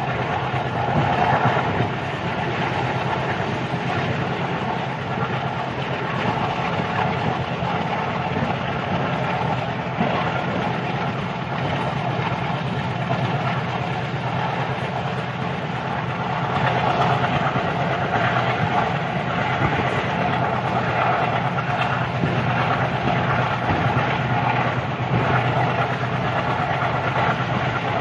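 Passenger train running steadily, heard from an open coach doorway: the continuous noise of the coach's wheels on the rails.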